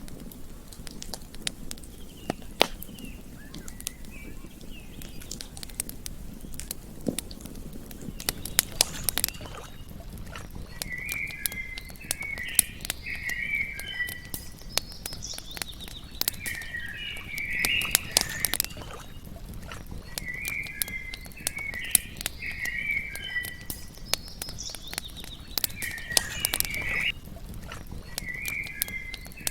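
Campfire crackling and popping in irregular sharp snaps. From about a third of the way in, short bursts of chirping calls repeat every four to five seconds.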